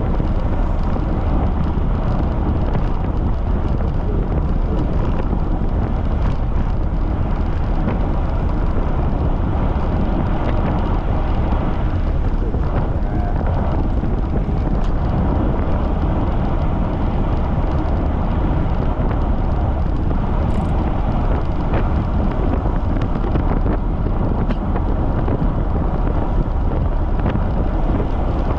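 Strong wind buffeting the microphone, a loud, steady, deep rumble with no letup.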